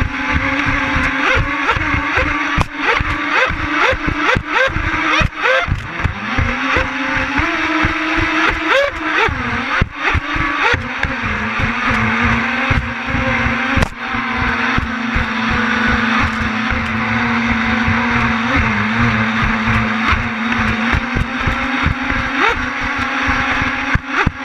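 Twin brushless electric motors of an RC catamaran running under load. Their tone wanders in pitch, then drops about halfway through and holds steady, with many short knocks and crackles over it.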